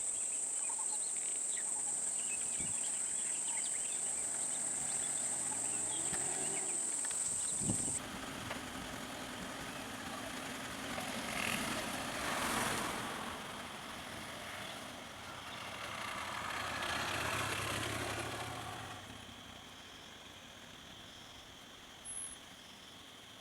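Steady high-pitched insect drone that stops suddenly about a third of the way in. Then road vehicles pass, their noise rising and fading twice, the second time with a low engine hum, before it dies away.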